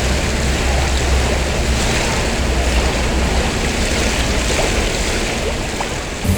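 Rushing water: a steady, even wash with a deep rumble underneath.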